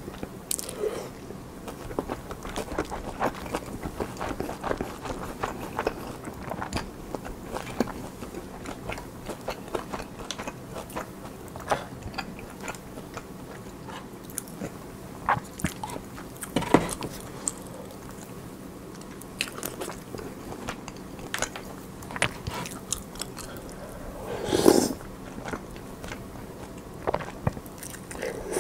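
Close-miked chewing and wet mouth sounds of a person eating fish-roe soup with rice: a steady run of small clicks and smacks, with one louder, longer mouthful near the end.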